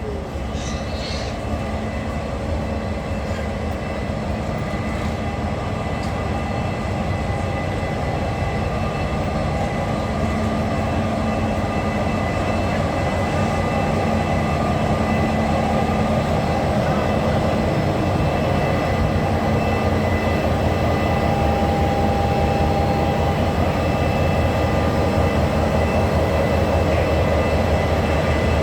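Capital Connection passenger train running steadily, with a low hum and a few held tones, growing slowly louder.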